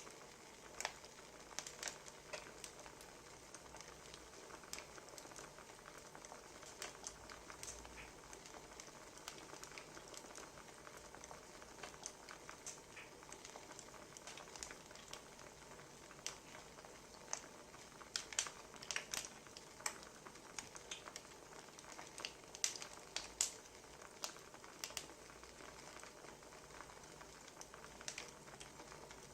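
Wood fire crackling: irregular sharp pops and snaps over a faint steady hiss, with a run of louder pops a little past the middle.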